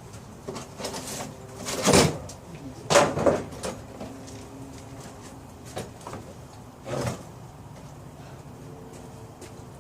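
Objects being handled and moved: a few short scrapes and clunks, the loudest about two and three seconds in and another about seven seconds in.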